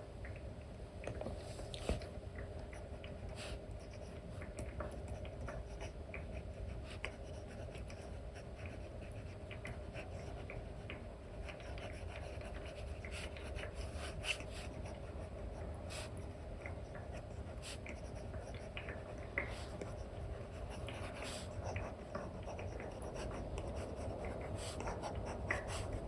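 Apple Pencil stylus with a replacement nib brushing and scratching across a paper-textured iPad screen protector in continuous painting strokes, with scattered light taps of the nib on the glass.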